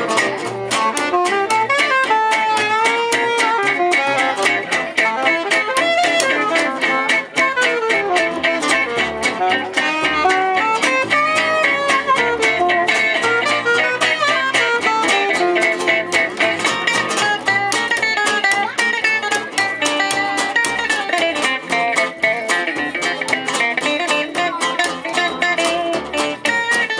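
Live gypsy-jazz (jazz manouche) band playing: acoustic guitar chords strummed in a quick, even rhythm, with a violin carrying a melody that slides up and down over them.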